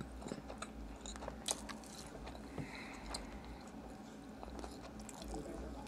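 Close-up chewing of a mouthful of Subway sandwich: soft wet mouth sounds with scattered small crunchy clicks, the sharpest about a second and a half in.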